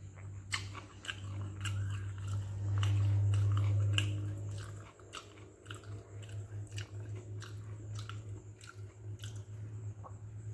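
Close-up chewing and biting of a mouthful of fermented rice with okra stir-fry, with a run of quick mouth clicks about two to three a second. A steady low hum runs underneath and swells for a couple of seconds near the middle.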